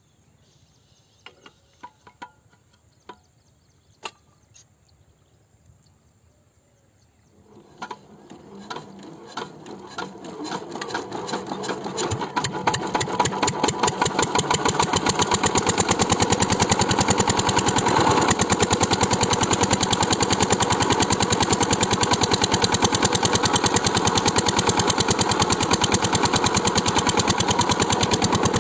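A few faint clicks, then a small water-cooled diesel pump-set engine starts about seven seconds in. It fires slowly at first, speeds up over several seconds to a fast, even beat, and then runs steadily.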